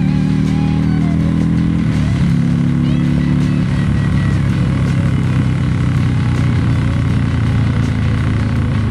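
Motorcycle engine running under way, its pitch climbing slowly and then dropping at a gear change about two seconds in, with another change a little under two seconds later before it settles at a steady note.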